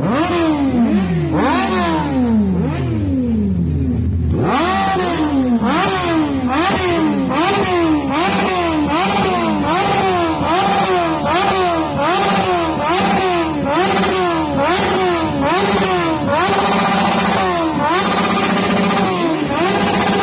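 Motorcycle engine revved again and again, its pitch rising and falling about once a second, with a few longer held revs near the end.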